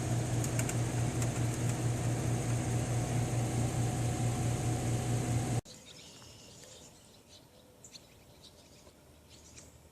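Steady electric motor hum with fan noise, which cuts off suddenly about two-thirds of the way through, leaving faint scattered chirps and clicks.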